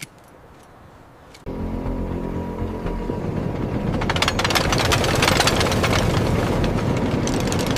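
A loud engine or heavy machine cuts in suddenly about a second and a half in and runs steadily with a low hum, joined from about four seconds by a dense rattling clatter.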